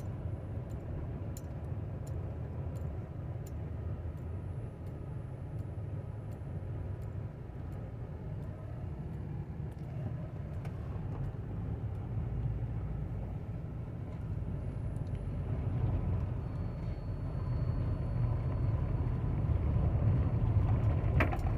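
Steady low engine and road rumble of a car being driven, heard from inside the cabin, growing somewhat louder over the last few seconds.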